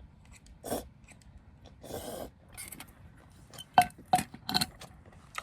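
Eating sounds: a few short chewing and mouth noises, then three sharp, ringing clinks in quick succession about four seconds in, as utensils knock against the noodle bowl.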